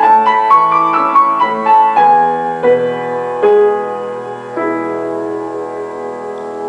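Background music: solo piano playing a gentle melody over sustained chords.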